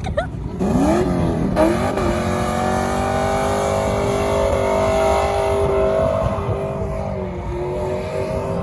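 A vehicle engine revving: the pitch climbs sharply about a second in, then the engine is held at high revs for several seconds, dipping slightly near the end.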